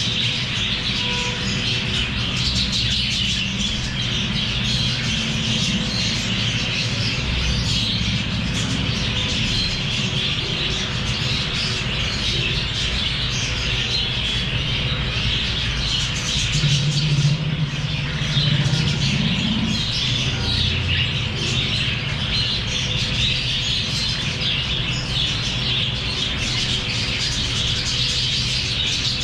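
A flock of small pet parrots chirping and chattering nonstop, many short high calls overlapping. A low rumble runs underneath and grows louder for a couple of seconds past the middle.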